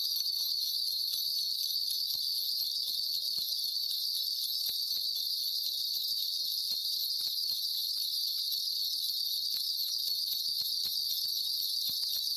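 A shaman's cluster of brass ritual bells shaken without a break, giving a dense, steady, high jingling that doesn't let up.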